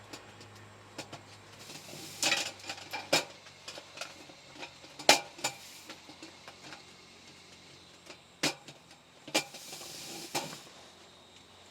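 Scattered light clicks and knocks of objects being handled, with brief stretches of rustling hiss about two seconds in and again near the end.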